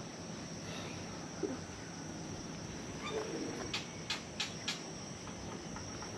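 Steady high-pitched chirring of crickets or other insects, with a few short sharp clicks or chirps about two-thirds of the way through.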